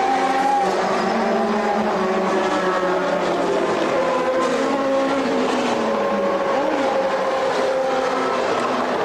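Several 1988 Formula One cars' engines running at the same time, each a distinct tone drifting up and down in pitch, with one brief rise and fall about seven seconds in.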